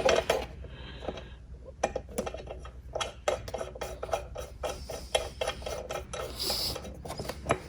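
Irregular light clicking and rubbing of an Allen key turning a bolt into place through a plastic ATV body panel.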